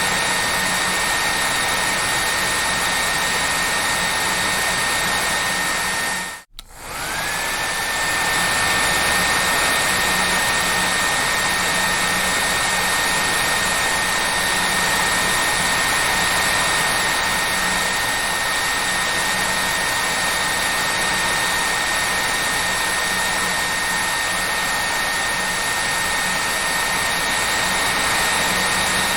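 Electric hair dryer running: a steady rushing blow with a high motor whine. It cuts out for a moment about six and a half seconds in, then comes back with the whine rising quickly to its steady pitch.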